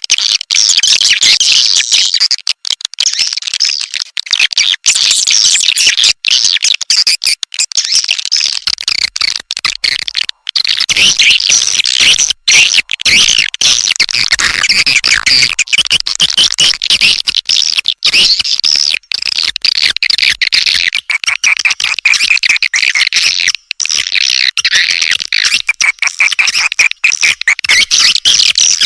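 Swiftlet lure call recording: a dense, unbroken chorus of high chirping and rapid clicking twitter from many swiftlets, of the kind played to draw swiftlets into a nesting house.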